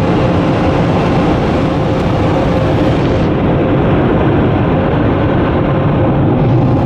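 Washworld high velocity car wash's built-in dryers blowing air over the vehicle: a loud, steady rush of air with a faint steady hum. The upper hiss dulls about three seconds in and comes back near the end.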